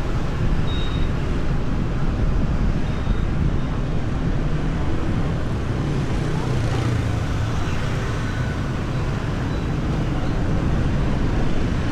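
Steady rumble of a motorbike riding through city traffic, heard from the bike itself, with even road and traffic noise and no pauses or sudden events.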